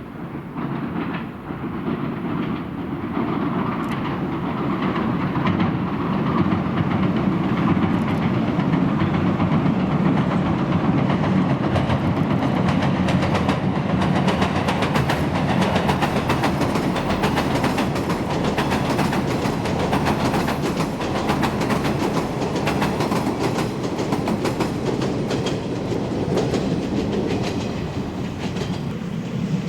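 JR Echigo Line electric train crossing the Shinano River railway bridge: a continuous rumble with wheels clattering rapidly over rail joints, building over the first several seconds and then holding steady.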